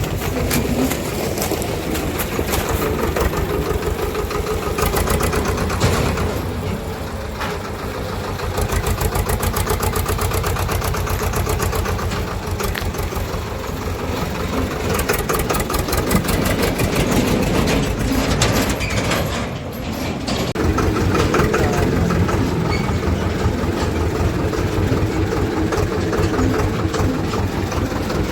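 Swaraj tractor's diesel engine running steadily with a fast, even firing beat. Its note eases off briefly about seven seconds in and again about twenty seconds in.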